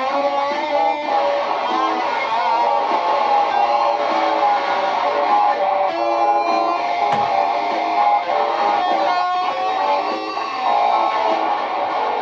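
Live-looped electric guitar: several layered guitar parts play together, plucked note lines over strummed chords, with the notes changing in quick steps.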